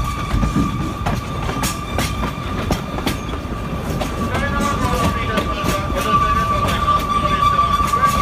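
Oigawa Railway Ikawa Line passenger car rolling slowly, with its wheels clicking over rail joints and a steady high-pitched squeal over a low running rumble.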